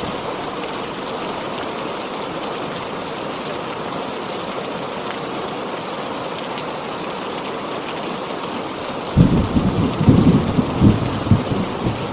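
Heavy rain falling steadily. About nine seconds in, a thunderclap breaks in suddenly as a loud, low rumble with sharp cracks.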